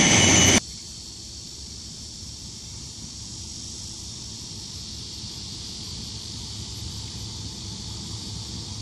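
A passenger train car rolling past close by, cut off suddenly about half a second in. Then a steady high chorus of summer insects over the low rumble of a distant diesel locomotive, which grows slowly louder as the train approaches.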